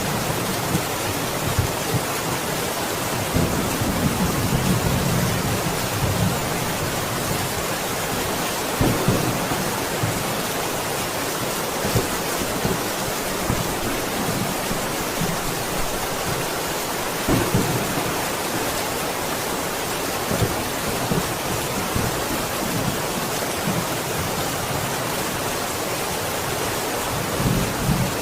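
Steady heavy rain, with brief low rumbles of thunder coming and going several times.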